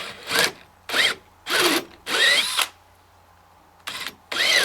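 Power drill run in about five short bursts, its motor speeding up and slowing with each squeeze of the trigger, with a pause midway. A shorter bit is widening the mouth of a pilot hole in timber for a tapered hinge pin, so the cladding boards don't crack.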